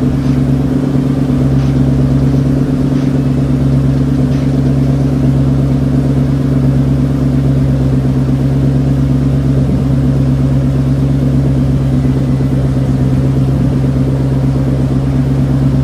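Toyota Celsior UCF30's 4.3-litre V8 idling with a low, steady note through an exhaust whose centre muffler is replaced with a straight pipe.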